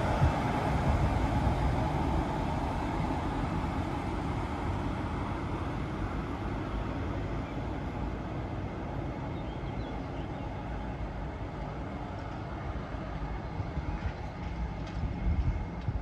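A train rolling past, its steady rumble slowly fading as it draws away, with one sharp knock just at the start.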